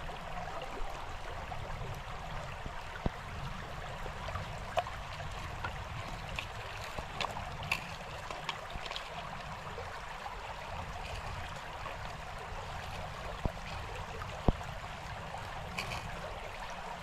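Shallow creek water trickling and gurgling steadily, with scattered small clicks and knocks, a sharper knock about fourteen seconds in.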